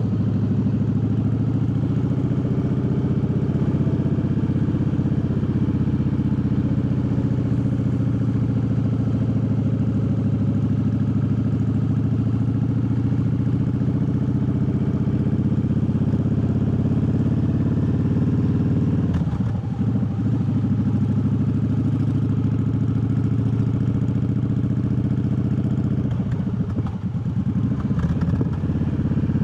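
Triumph Bobber's 1200 cc parallel-twin engine running steadily as the motorcycle rides along. Twice, about two-thirds of the way in and again near the end, the engine note breaks off briefly.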